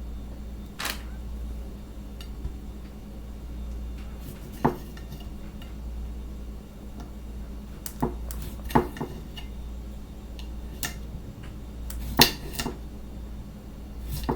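Kitchen utensils and dishes knocking and clinking: about seven separate sharp hits, unevenly spaced, over a steady low hum.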